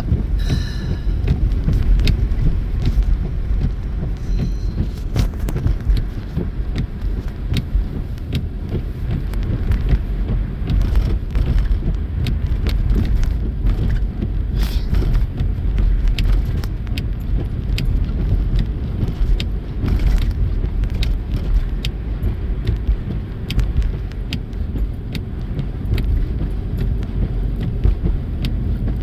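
Car driving, heard from inside the cabin: a steady low rumble of engine and tyre noise, with scattered light clicks and rattles.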